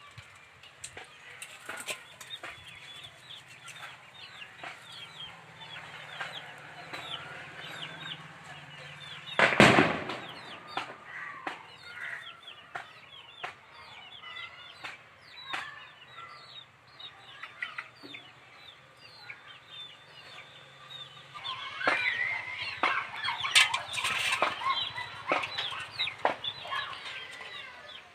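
Chickens clucking and calling in many short notes, busiest and loudest in the last third. About ten seconds in there is one loud, short burst of noise.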